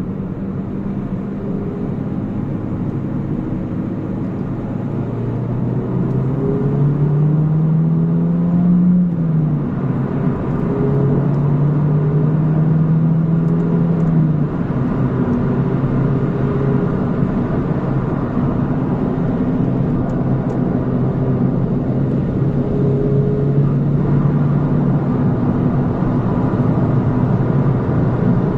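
Peugeot 207's 1.6 THP turbocharged four-cylinder engine running while the car is driven, a steady drone whose pitch climbs and then steps down several times, around ten, fifteen and twenty-five seconds in.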